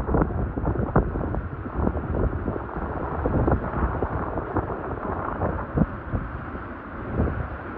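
Strong wind buffeting the microphone in irregular gusts, a dense rumbling rush with frequent short thumps.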